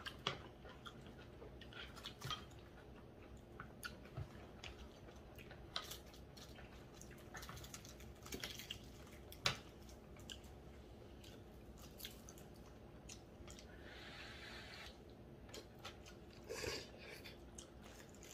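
Faint chewing and mouth sounds of people eating braised pork back bones, with scattered light clicks of chopsticks on bowls and bones. A brief hiss comes about fourteen seconds in.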